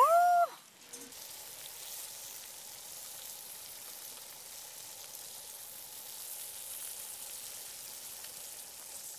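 Whole prawns and abalone sizzling in butter in a skillet: a steady, even frying hiss. It opens with a short, loud rising tone, an added sound effect.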